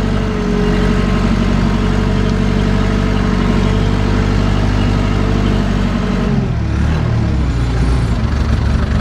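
JCB backhoe's diesel engine running steadily as the machine travels, with a steady whine above it. About six seconds in the whine stops and the engine speed drops, its pitch falling to a lower steady note.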